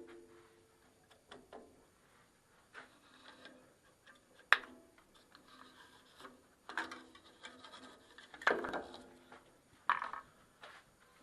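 Wooden pieces being handled and moved by hand: intermittent scraping and rubbing with light knocks, and one sharp click about four and a half seconds in. No saw is running.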